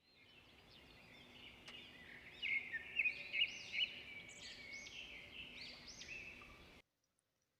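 Songbirds singing: a run of short, repeated arching notes, busiest in the middle, that cuts off suddenly near the end.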